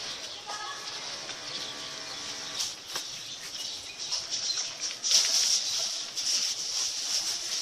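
Mosquito net being hand-washed in soapy water: fabric swishing and water splashing with scattered small clicks, louder from about five seconds in.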